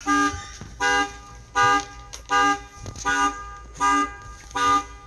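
A vehicle horn or alarm honking in a steady, even rhythm, about one short blast every three-quarters of a second, seven blasts in all.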